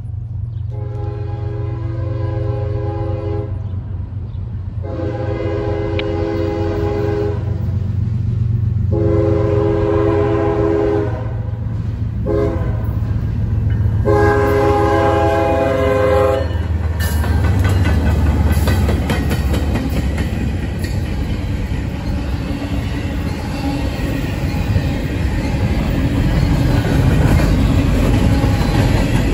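Norfolk Southern diesel freight locomotives sound their multi-tone horn in four long blasts for the grade crossing, over the steady low rumble of their engines. About 17 seconds in the horn stops and the locomotives pass, followed by double-stack intermodal well cars rolling by with a loud, continuous clatter of wheels over the rail joints.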